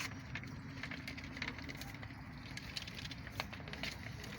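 Ducks feeding, making scattered light clicks and taps as they peck at food and water, over a steady low background hum.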